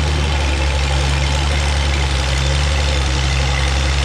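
Oliver tractor's engine with a hard-filled block, running steadily at constant speed under load while pulling the sled.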